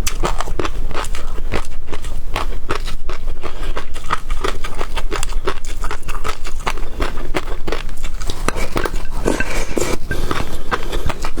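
Close-miked eating of seafood: a dense, irregular run of crunching, crackling and wet mouth clicks from biting and chewing.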